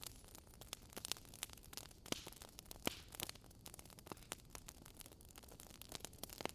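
Fire in a fireplace crackling: irregular sharp pops and snaps over a faint steady hiss, with two louder pops about two and three seconds in.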